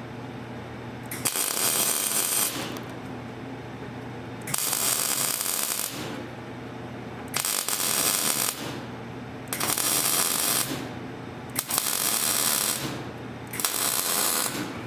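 MIG welder welding the exhaust pipe joint in six short bursts, each a sizzling hiss about a second long, with a steady low hum in the gaps between them.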